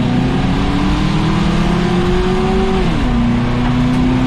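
Ford Crown Victoria's V8 race engine pulling hard under power, heard from inside the car: its pitch climbs steadily for nearly three seconds, then drops quickly and holds steady.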